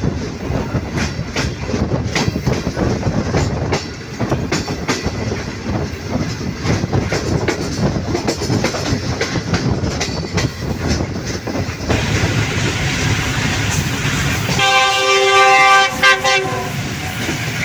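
Passenger train running at speed, wheels clicking over rail joints with a steady rumble. About fifteen seconds in, a train horn sounds one long, steady note for about two seconds.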